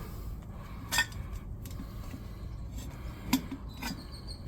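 Screwdrivers clicking against the metal rim as the tire bead is levered on, three sharp clinks: one about a second in and two close together near the end.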